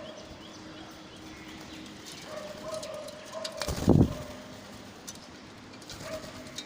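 Soft bird calls: a drawn-out low cooing-like call with short higher chirps, and one loud low bump about four seconds in.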